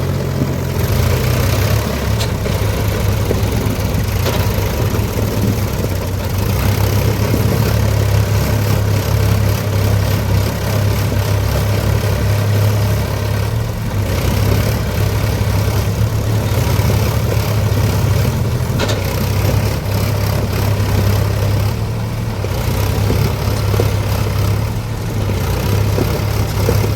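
Tractor engine running steadily, with a deep, even hum throughout.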